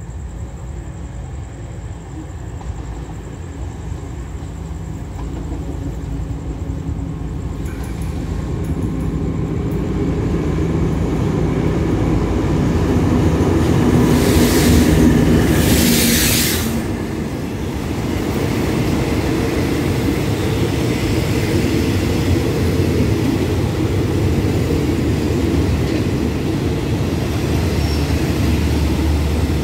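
Diesel-electric locomotive of an express train arriving at a station platform: its rumble grows louder as it approaches, and two loud bursts of rushing noise come about fourteen to seventeen seconds in as the locomotive passes close. After that the passenger carriages roll by with a steady low rumble.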